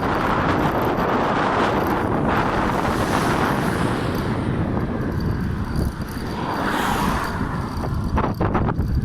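Steady rush of wind and road noise on the microphone of a bicycle riding along a road, with passing traffic swelling near the start and again about seven seconds in.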